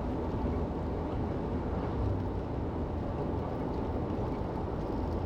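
Steady road and engine noise of a car cruising along a highway, heard from inside the cabin.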